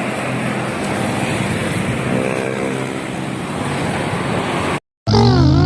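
Steady rushing noise of a large vehicle going past. It drops out suddenly near the end and is followed by a louder sound with gliding tones.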